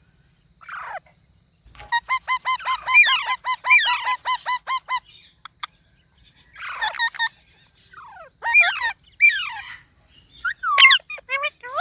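Green parrots calling: a fast run of repeated squawks, about six a second, then scattered swooping calls that fall in pitch.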